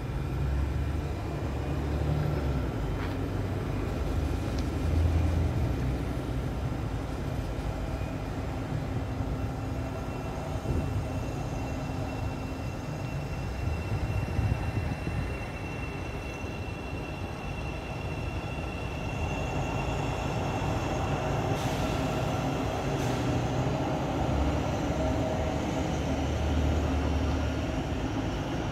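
Electric multiple-unit passenger train pulling out of the station and running away along the track, with a steady rumble of wheels and faint motor tones.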